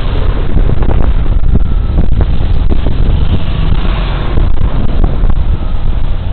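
Loud, steady rumble of wind buffeting a body-worn camera's microphone on a moving Suzuki Burgman Street 125 scooter, with road noise beneath and a few short knocks.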